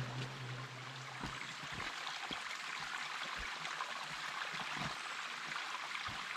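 Running water: a steady, even rush with a few small drips and splashes scattered through it.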